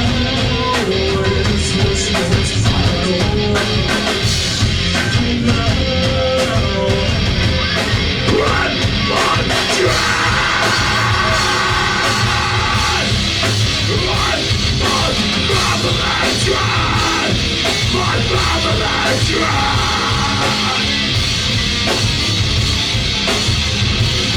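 Live rock band playing loudly, with drums, bass and distorted guitars and shouted vocals, as heard by a camera's microphone in the audience.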